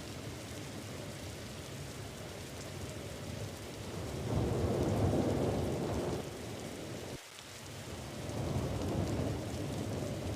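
Rain falling steadily with deep rolling thunder, the rumble swelling about four seconds in, dropping off sharply past the middle, and building again near the end.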